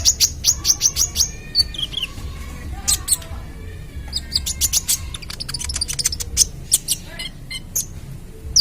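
Young kolibri ninja sunbird singing: rapid strings of sharp, high chirps and short fast runs of notes, with a quick falling whistle at the end.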